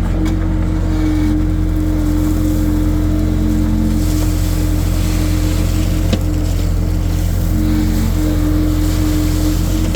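Skid steer engine running steadily with a loud, even drone, its pitch shifting slightly now and then. A single short click or knock about six seconds in.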